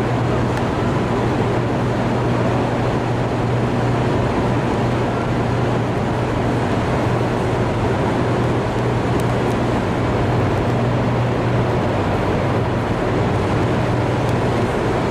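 Steady, loud machine drone of the Hoover Dam's hydroelectric generator hall: a constant low hum over a rushing noise.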